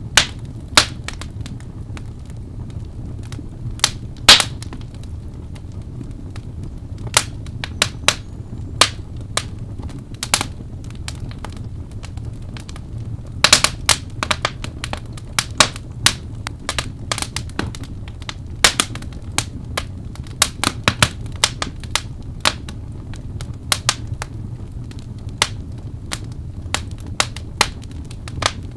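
Wood fire crackling: irregular sharp pops, some in quick clusters, over a steady low rumble, with the loudest pop about four seconds in.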